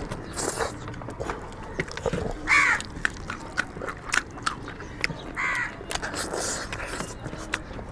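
Wet chewing and lip-smacking clicks from people eating rice and curry by hand. Two short calls, each falling in pitch, come about two and a half and five and a half seconds in.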